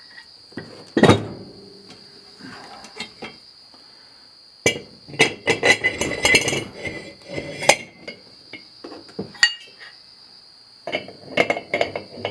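Steel disc harrow parts (washers, spacers and a coulter disc) clinking and clanking as they are handled on a bolt, with one loud ringing clank about a second in and bursts of rapid clinking around the middle and near the end.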